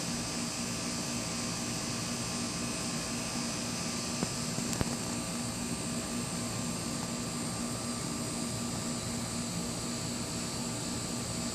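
A steady hiss with a low hum under it, with two faint clicks a little past the middle; no thunder is heard.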